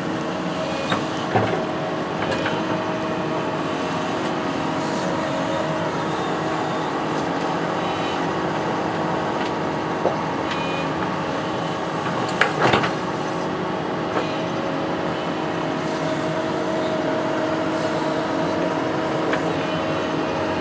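A construction machine's engine running steadily, with a few short knocks, one near the start and two between about 10 and 13 seconds in.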